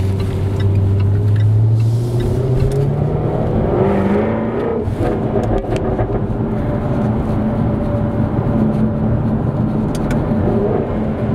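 Car engine accelerating, rising in pitch over the first two seconds, then stepping up at about four seconds and holding steady. A few sharp exhaust pops sound around the middle and near the end, which are called "those pops".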